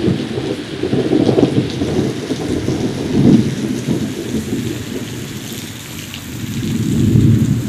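Heavy rain falling steadily in a storm, with a low rumble underneath that swells about three seconds in and again near the end.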